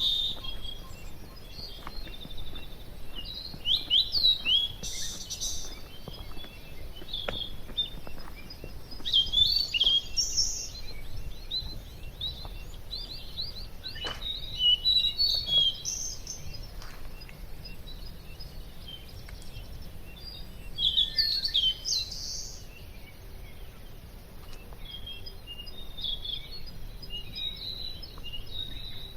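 Wild birds chirping and trilling in short, high-pitched clusters every few seconds, with several calls overlapping, over a faint steady low background hiss.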